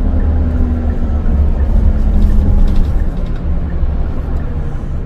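Hyundai Universe Prime CNG bus engine running under way, a heavy low rumble with a tone that slowly falls in pitch as the engine slows.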